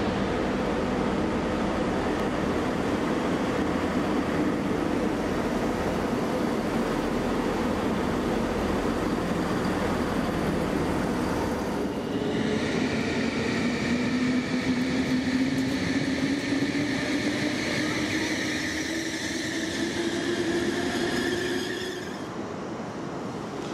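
A Vectus diesel railcar's engine runs with a steady low drone as the unit moves along the platform. About halfway through it gives way to an ICE electric train's high whine from its traction equipment, over a lower tone that slowly rises in pitch. Near the end this drops to quieter station hall background noise.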